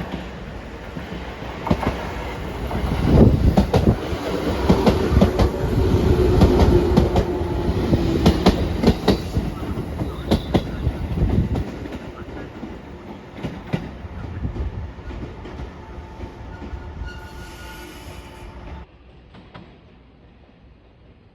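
A train running on rails, its wheels clattering over rail joints in a run of sharp clicks, with a held whine partway through. It is loudest in the first half, then fades away and drops off suddenly near the end.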